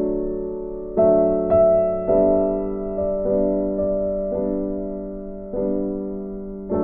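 Background music: slow, gentle piano, soft chords struck about once a second and left to ring and fade.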